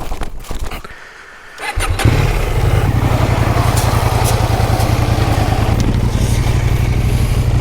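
Husqvarna Norden 901's parallel-twin engine starting about two seconds in, after a few clicks, then idling steadily with an even, rapid beat.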